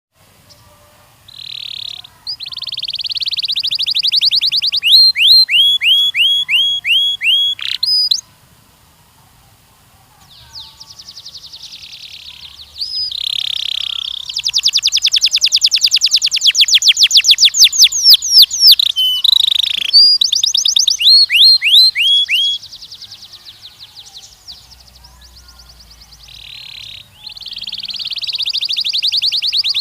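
Canary singing: long rapid trills and runs of quick down-sweeping notes, in phrases broken by a short pause about eight seconds in.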